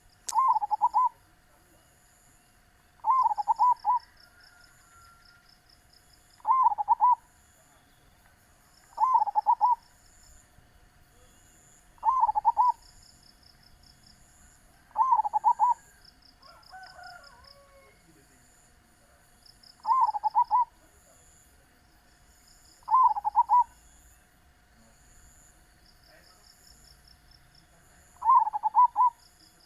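Zebra dove (perkutut) cooing: short trilled coo phrases repeated about every three seconds, nine in all. A high pulsing insect trill runs underneath.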